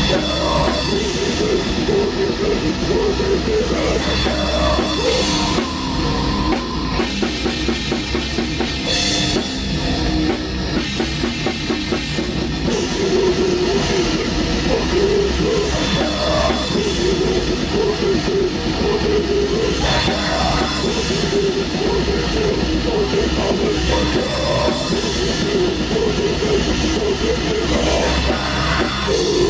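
Black metal band rehearsing: drum kit and guitar playing together, loud and without a break.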